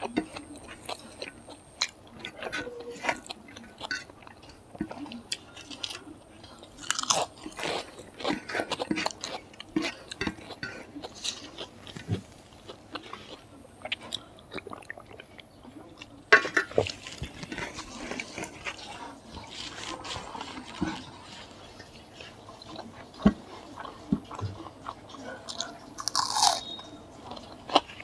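Close-miked chewing and crunching of a meal of pork fry, rice and crisp papad, with irregular crackles and bites throughout.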